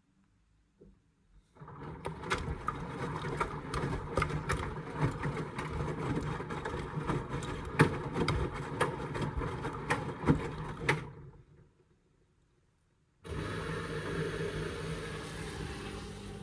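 Indesit washing machine drum turning during a rinse: the motor runs with water sloshing and many sharp clicks, then stops about 11 seconds in. About a second and a half later a steady hiss of water starts as the machine fills again.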